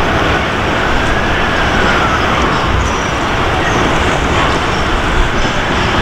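Steady rumbling noise of an approaching freight train hauled by an electric locomotive, mixed with road traffic. A faint high tone rises and falls through it.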